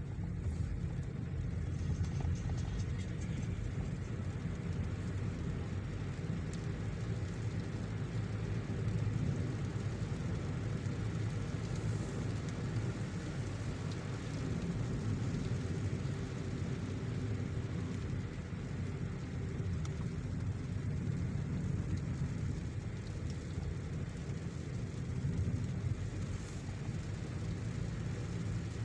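A car driving in heavy rain, heard from inside: a steady low rumble of road and engine noise under a fainter hiss.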